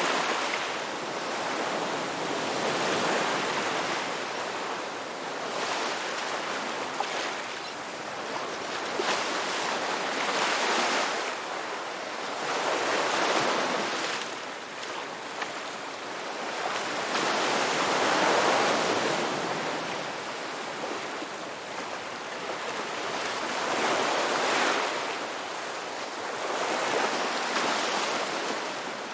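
Ocean waves breaking and washing onto a rocky beach, a steady wash of surf that swells and ebbs every few seconds.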